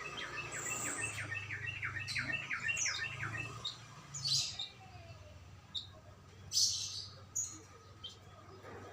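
Songbirds singing: a quick run of about ten repeated notes over the first three and a half seconds, then scattered short, sharp calls.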